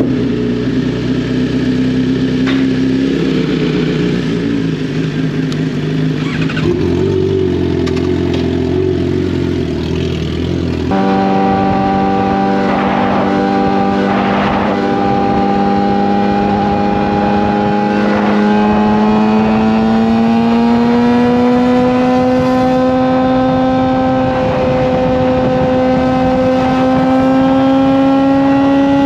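Suzuki GSX-R750 inline-four motorcycle engine through an M4 slip-on exhaust, running at highway speed. About a third of the way in the throttle opens and the note gets louder and higher, then it climbs slowly in pitch as the bike accelerates through the gear.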